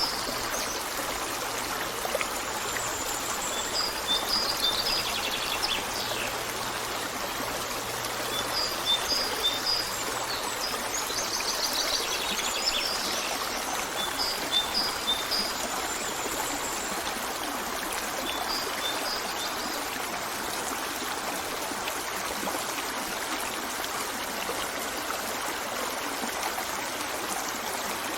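A stream running steadily, with birds calling in groups of short, high, repeated notes on and off through the first two-thirds, including two rapid trills. After that only the water is heard.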